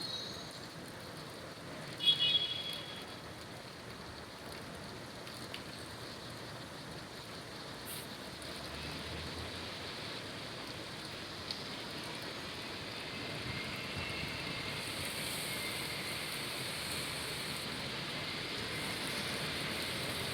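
Steady rain falling on a city street, with the hiss of traffic on the wet road, growing somewhat louder over the second half. About two seconds in, a brief high-pitched squeal stands out as the loudest sound.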